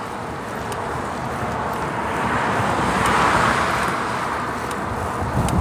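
Highway traffic noise heard from a bicycle: a motor vehicle passes, its tyre and engine noise swelling to a peak about three seconds in and then fading, over a steady rush of road and wind noise. A few light ticks near the end.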